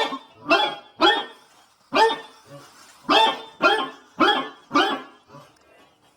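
A dog barking repeatedly, about eight sharp barks in roughly five seconds, falling silent about a second before the end.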